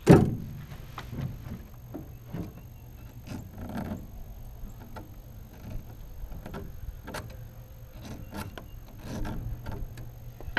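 A hard knock, then scattered light clicks, taps and brief scrapes of metal tools being handled on a chainsaw as a file guide is fitted to its chain.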